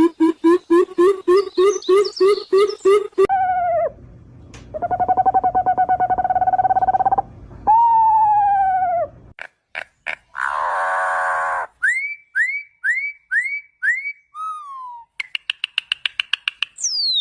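A run of varied bird calls that changes abruptly every second or two: a fast string of low repeated notes, several falling whistled calls, a steady buzzy trill, five short rising whistles in a row, and a rapid chatter ending in a falling whistle.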